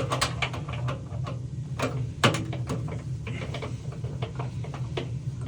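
Irregular clicks and knocks of tools and metal parts being handled during repair work on a gas water heater's burner, over a steady low hum. The loudest knock comes a little after two seconds in.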